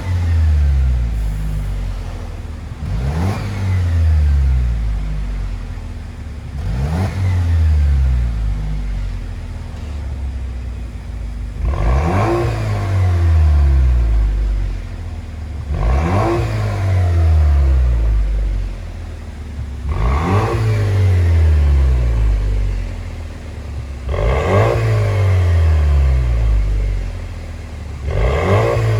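Jeep Wrangler engine through an aftermarket valved dual-muffler performance exhaust, revved again and again. About every four seconds the note rises quickly and then falls away, and it sounds fuller from about twelve seconds in.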